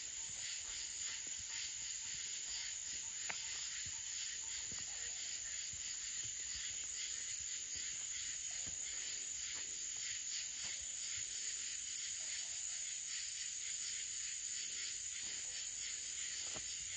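Steady high-pitched chorus of night insects such as crickets, with a few faint clicks.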